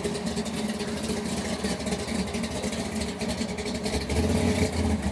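A car engine running at low speed, a steady low rumble that grows louder about four seconds in.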